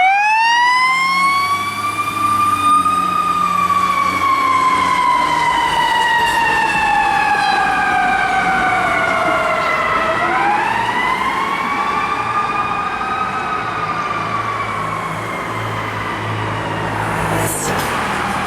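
Fire truck's mechanical siren winding up, then slowly coasting down in pitch; it is wound up again about ten seconds in and coasts down once more. The truck's engine runs under it.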